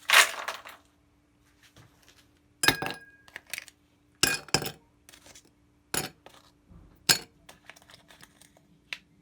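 Dishes and utensils clinking and knocking: about six sharp separate strikes with a short ring, a second or so apart, over a faint steady hum.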